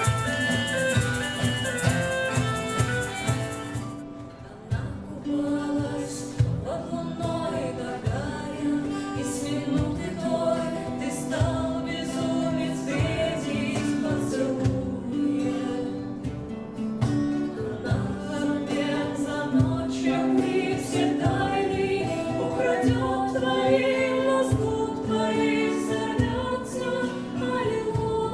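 Live acoustic band music. A lively fiddle tune with a shaker rattling ends about four seconds in, and a slow song with singing over instruments begins.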